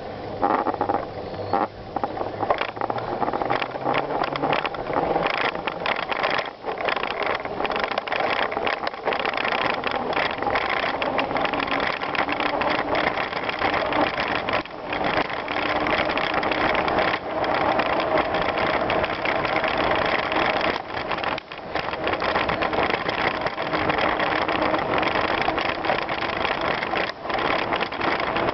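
Bicycle riding over rough gravel trail: steady tyre noise with frequent rattles and knocks from the bike jolting over the ground.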